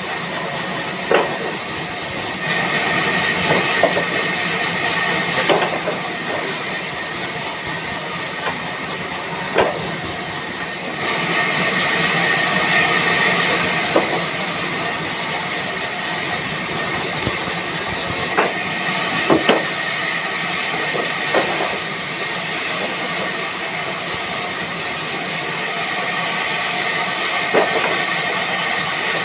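A train running: a steady loud rumble and hiss that swells and fades every few seconds, with scattered sharp clicks from the wheels and carriages.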